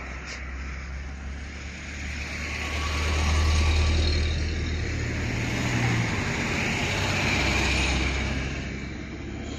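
Hyundai County bus's turbo-diesel engine running as the vehicle moves, a steady low drone that swells louder twice.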